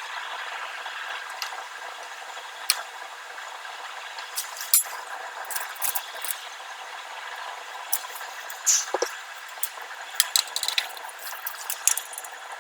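Scattered sharp clicks and light knocks over a steady hiss.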